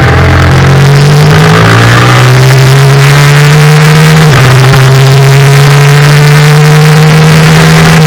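Yamaha FZ-07 parallel-twin engine under hard acceleration, its pitch climbing, with a sudden drop at an upshift about four seconds in before it pulls and rises again.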